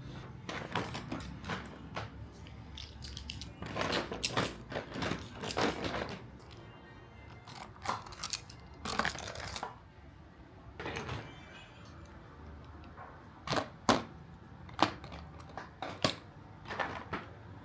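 Irregular knocks, clicks and clatters of household objects being handled and set down, over faint background music.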